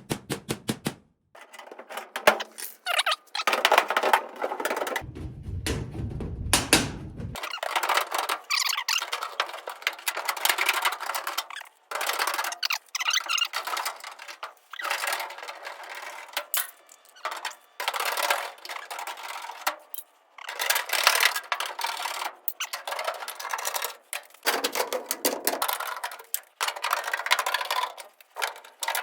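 Sheet-metal HVAC duct being cut by hand with tin snips: irregular, repeated bursts of metallic crunching and scraping as the blades chew through the metal.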